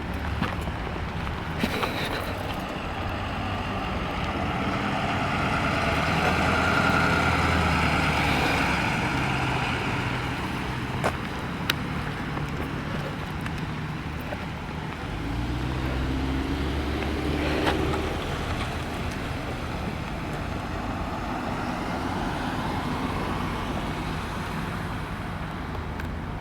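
Road traffic passing: engine hum and tyre hiss that swell as vehicles go by, loudest about seven seconds in and again near seventeen seconds.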